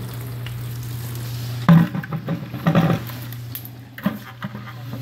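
Two-drawer dishwasher running: a steady low motor hum under a hissing spray of water inside. From about two seconds in, a run of irregular knocks and clatter as the machine is handled.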